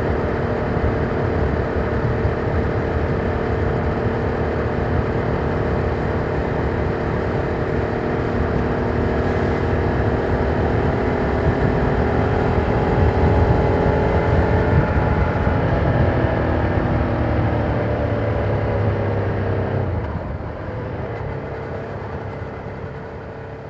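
Ducati Monster 797's air-cooled L-twin engine running at steady revs under way, with road and wind noise. Past the middle, the engine note falls as the bike slows, and a few seconds later the sound drops to a lower, quieter run.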